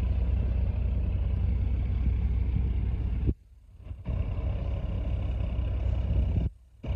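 Diesel engine of a squid-fishing boat running steadily with a deep drone. It cuts out abruptly for nearly a second a little after halfway, and again briefly near the end.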